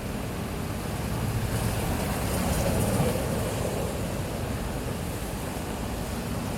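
City street traffic ambience: a steady rumble of passing vehicles and engines, swelling slightly as something passes a couple of seconds in.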